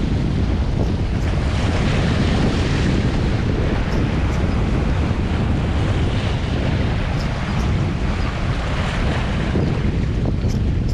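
Strong wind buffeting the microphone, a steady low rumble over the wash of waves on the shore.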